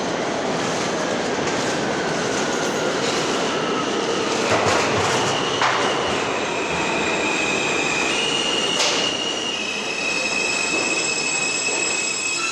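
New York City Subway L train running along the platform: a steady rumble of the cars, with steel wheels squealing on the rails in high, steady tones from about halfway through. A few sharp clacks sound over it.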